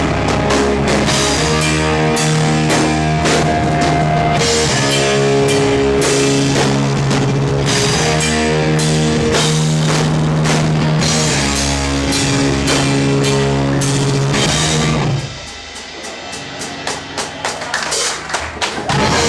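Live rock band with drum kit and guitars playing long held chords, stopping abruptly about three quarters of the way through; quieter, uneven sound follows, with scattered audience clapping.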